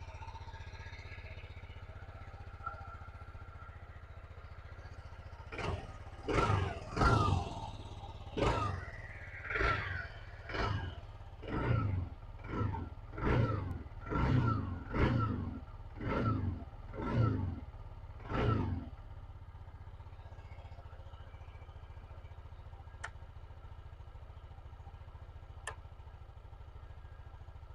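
TVS Jupiter 125 scooter's single-cylinder four-stroke engine idling quietly, then blipped about a dozen times in quick succession, each rev rising and falling, before settling back to a steady idle.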